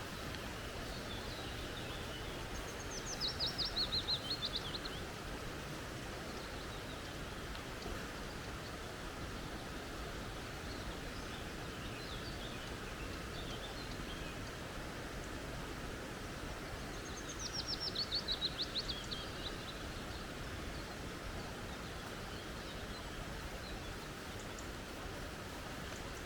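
Steady rush of a flowing creek, with a small bird singing twice, a quick run of high notes that falls in pitch, once a few seconds in and again past halfway.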